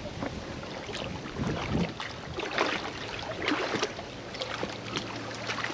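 Footsteps wading through shallow water: irregular splashes and swishes, a few seconds apart.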